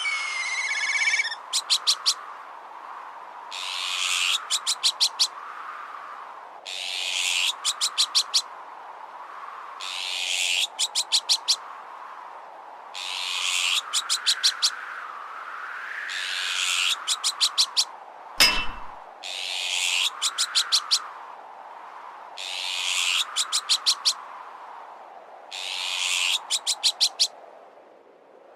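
Azure-winged magpie alarm call, looped, repeating about every three seconds: a harsh rasping note followed by a quick run of sharp clicks. Under it runs a gusting wind that rises and falls. A whistling, gliding bird call trails off in the first second, and a single metallic clang rings out a little past the middle.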